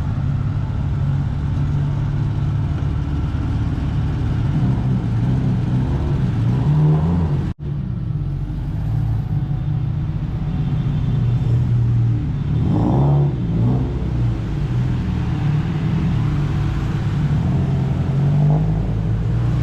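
Car engine running at idle with a steady low rumble, rising briefly in a short rev about thirteen seconds in. The sound breaks off for an instant about seven and a half seconds in.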